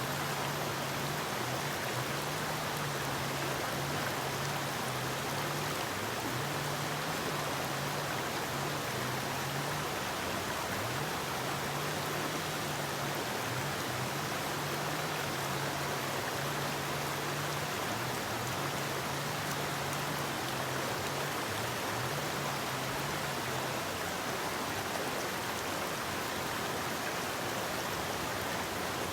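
A forest river flowing, a steady, unbroken rush of water. Beneath it is a faint low hum that shifts back and forth between two pitches.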